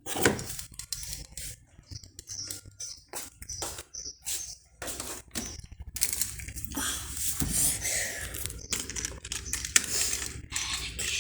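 Plastic toy vehicles being handled and knocked together, giving irregular clicks and clatters.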